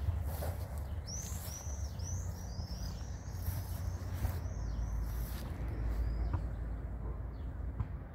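A small bird calling: a run of about a dozen quick, high, down-slurred chirps lasting about five seconds, over a steady low rumble.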